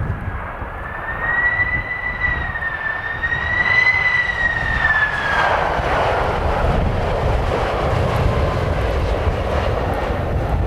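Boeing 767 jet engines on arrival: a high whine wavering up and down in pitch fades about five seconds in, giving way to a broader jet rush, over a heavy low rumble of wind.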